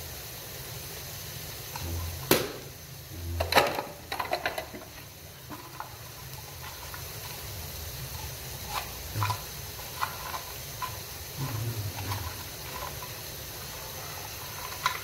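Sliced onions frying in hot oil in a pan: a steady sizzle with scattered small pops and crackles. A few sharp knocks stand out about two to four seconds in.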